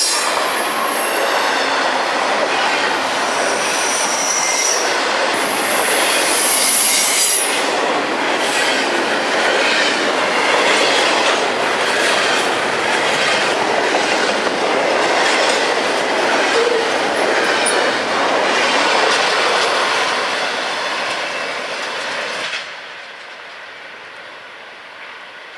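Freight train passing close by, its cars rattling and clattering over the rails, with high-pitched wheel squeal during the first several seconds. The noise drops off sharply near the end.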